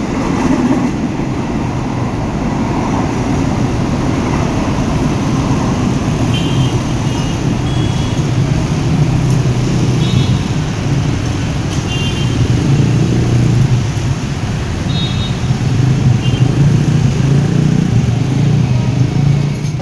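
Pertamina freight train rolling past close by, a steady low rumble that keeps on without a break. A few faint, short high squeaks come through several times.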